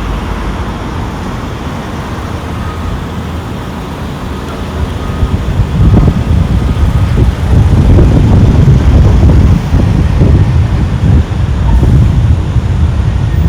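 Street traffic noise, with a louder, uneven low rumble setting in about halfway through.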